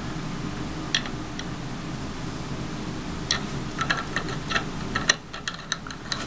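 Small hard clicks and taps of a faucet aerator being handled and fitted onto the faucet spout: one click about a second in, then a run of quick clicks from about three seconds on, over a steady low hum.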